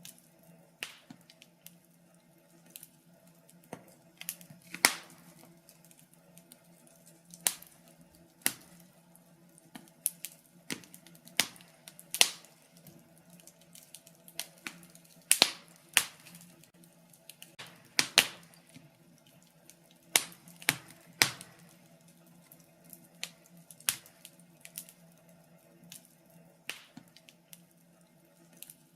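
Wood fire in a fireplace crackling, with irregular sharp pops and snaps, a few of them loud, over a faint steady hum.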